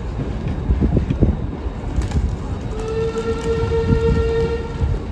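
Train coach running over the rails with a steady rumble and occasional knocks from the track; just before three seconds in, the locomotive ahead sounds one steady blast of about two seconds.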